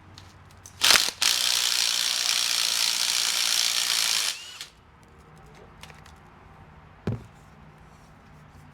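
Impact wrench hammering for about three seconds, breaking loose a fastener that was held with red Loctite, followed a few seconds later by one short metallic clank.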